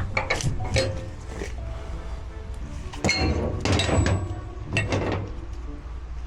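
Metal clinks and knocks of tie-down straps and chains being taken off a flatbed trailer load, over background music. A few sharp clanks come at the start, and the loudest come about three, four and five seconds in.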